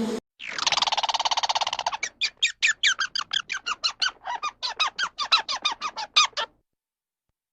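A bird calling: a buzzy, rattling call, then a rapid run of short, sharp calls, about four a second, each dropping slightly in pitch, that stops near the end.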